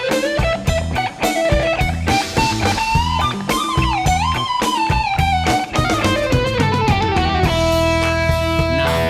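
Electric guitar playing a solo melody line with string bends and vibrato over a backing track of bass and drums. It settles on a long held note near the end.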